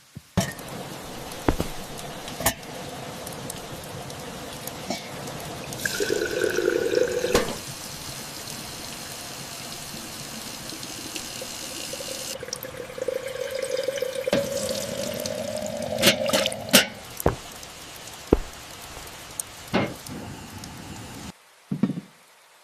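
Tea-making sounds: water poured into a vessel, its pitch rising as it fills a little past halfway, among scattered light clinks and knocks of crockery.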